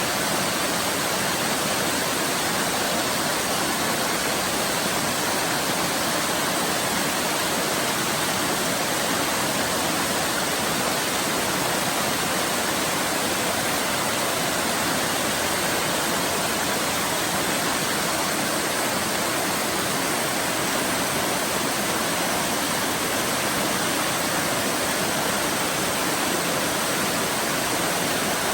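Waterfall pouring steadily: an even, unbroken rush of falling water, light on low rumble.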